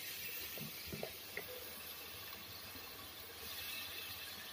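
Chicken pieces sizzling faintly in hot oil and spice masala in a pot on the stove: a soft, even hiss, with a few light ticks in the first second or so.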